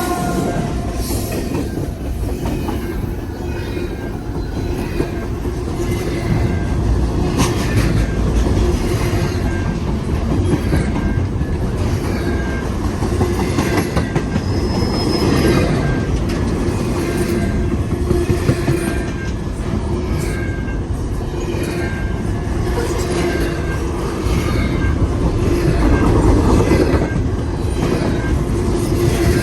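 Intermodal freight cars rolling past close by: a continuous rumble and clatter of steel wheels on the rails, with an on-and-off wheel squeal.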